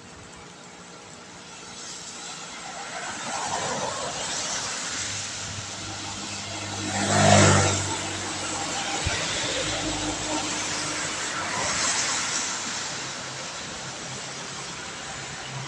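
Vehicles driving past on a wet road, their tyres hissing on the wet asphalt; the loudest passes about seven seconds in with a low engine hum, and a quieter one follows near the end.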